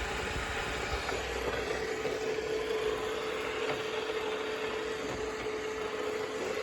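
Roborock S6 Pure robot vacuum cleaner running on a hearth: a steady motor hum with one steady whining tone.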